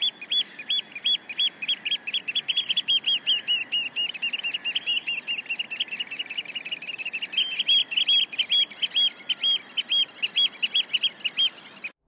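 Birds calling: rapid, repeated short high-pitched call notes, several overlapping, over a steady hiss.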